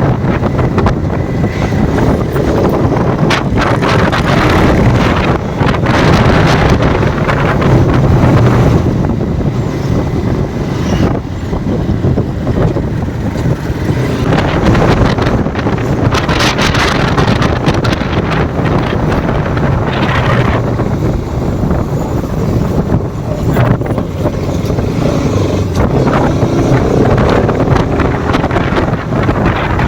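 Motorcycle under way: engine running steadily, mixed with heavy wind buffeting on the microphone.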